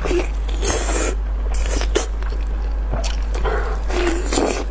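Close-up eating sounds: irregular wet slurping and squishing of food in the mouth, with a few small clicks.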